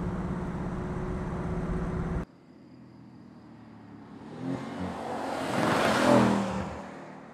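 Mercedes-AMG C63 Estate's twin-turbo V8 running at a steady note heard close to the exhaust. It cuts off suddenly about two seconds in; then the car is heard coming from a distance at speed, passing by loudest about six seconds in and fading away.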